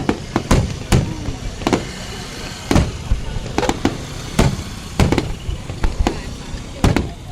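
Fireworks going off in a string of sharp bangs, roughly one every half second to a second at uneven intervals.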